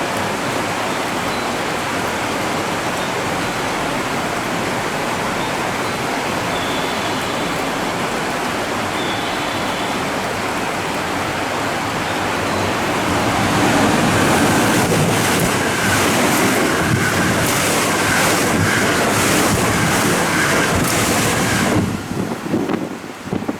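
Seven-car electric train running into the platform: a steady rumble of wheels on rail. It grows louder a little past halfway, then cuts off abruptly near the end.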